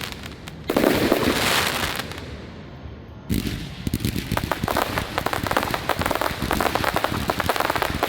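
Aerial fireworks: a loud burst about a second in that fades away, then another burst around three seconds in, followed by dense rapid crackling pops.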